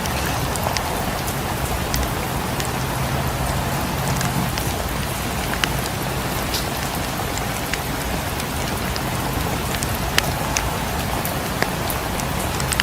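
Steady rain falling on a cabin's windows and roof, with scattered sharp crackles and pops from a wood fire in the fireplace.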